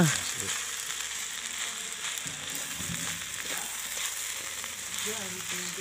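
Fried rice sizzling steadily in a hot wok as it is stirred with a spatula.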